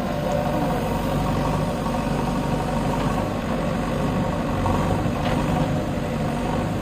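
Diesel engine of a JCB backhoe loader running steadily at idle, a low, even drone.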